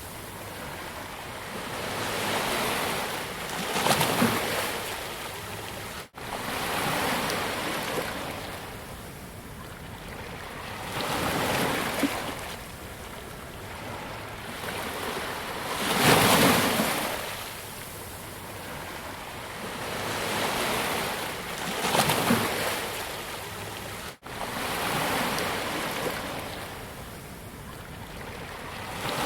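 Sea waves breaking and washing onto a beach, the surf swelling and falling back every few seconds, loudest about halfway through. The sound cuts out for an instant twice.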